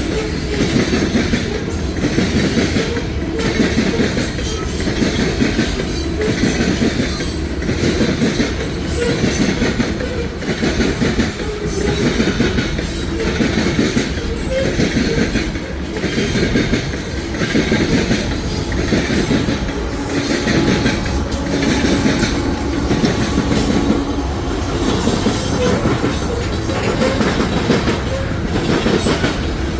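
Loaded freight cars of a potash train rolling past, their steel wheels clacking in a steady rhythm over the rail joints beneath a continuous rumble.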